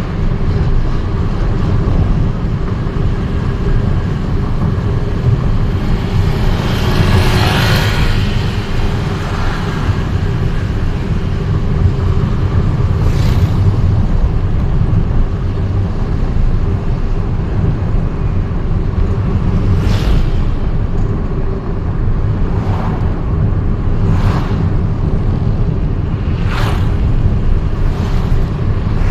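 Steady low road and engine rumble of a vehicle driving through city streets. A louder swell about a quarter of the way in sounds like another vehicle passing, and a handful of brief sharper sounds come later.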